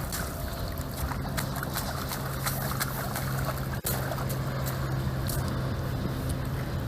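A motor runs steadily with a low hum, over a rough noisy background with scattered clicks. The sound drops out briefly a little before four seconds in.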